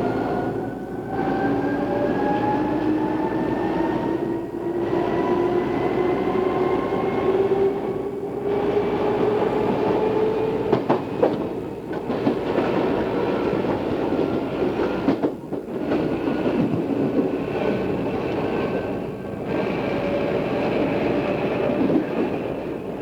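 Odakyu 2600 series electric train under way, heard from a cassette-tape recording. Its motor and gear whine climbs steadily in pitch as the train accelerates, with brief dips in level every few seconds. A few wheel clacks come over the rail joints partway through.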